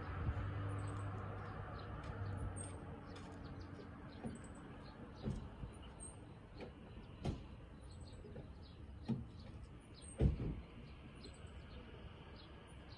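Small bird chirping, short high notes about once a second. A low engine hum fades away over the first few seconds, and a few soft thumps come through, the loudest about ten seconds in.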